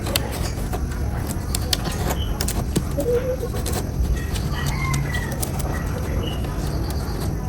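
Birds calling in short bursts over a steady low rumble, with scattered light taps and knocks.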